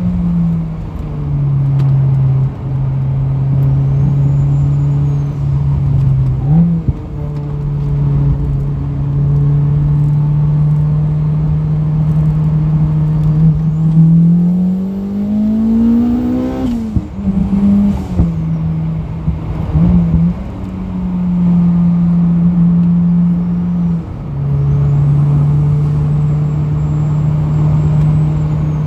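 Turbocharged Honda K20 four-cylinder in a mid-engined Toyota MR2, heard from inside the cabin on track: running under load with several gear changes, and a rising pull at full throttle about halfway through that is cut by an upshift. A vibration noise runs through the car, which the owner puts down to worn-out engine mounts.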